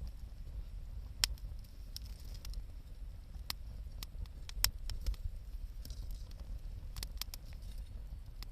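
Wood campfire crackling: irregular sharp pops and snaps, the loudest about a second in and near the middle, over a steady low rumble.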